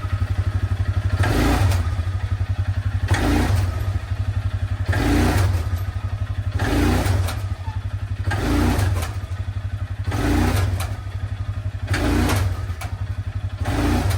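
A steady low engine-like rumble runs throughout. Over it come eight evenly spaced noisy strokes, one about every two seconds, each lasting about half a second.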